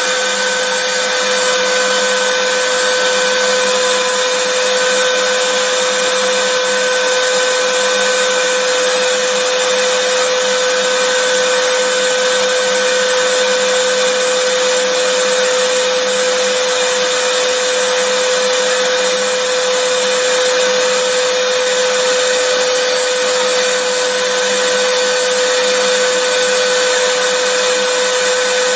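Vacuum cleaner running steadily: a continuous whooshing hiss with a constant motor whine.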